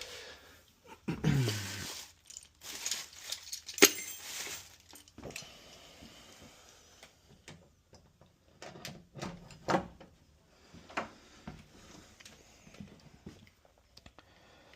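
Scattered clicks, knocks and light metallic rattling of deadbolt hardware and tools being handled at a door, with a sharp click about four seconds in.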